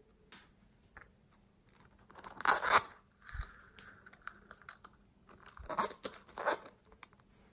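Slime being squeezed and kneaded by hand, crunching and crackling. There are two loud clusters of crackles: one about two seconds in and another past the middle, with faint clicks before them.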